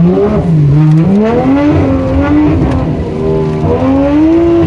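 Car engine revving hard, its pitch climbing and falling several times as the throttle is worked.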